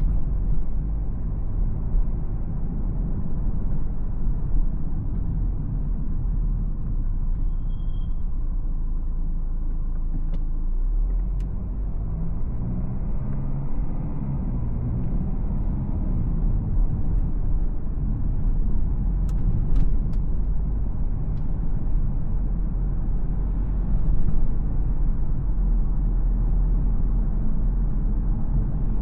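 BMW X4 xDrive20d's 2.0-litre four-cylinder turbodiesel and road noise as the car drives through town: a steady low rumble. About halfway through, the pitch rises and falls for a few seconds, and a few sharp clicks follow shortly after.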